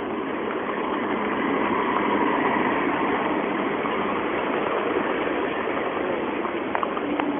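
Rain falling steadily on a lotus-covered pond: an even hiss that grows a little louder about two seconds in, with a few faint ticks near the end.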